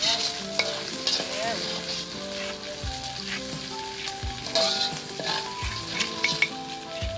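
Small dried anchovies (teri) sizzling as they fry in hot oil, stirred now and then, with spurts of crackling. Background music plays a melody underneath.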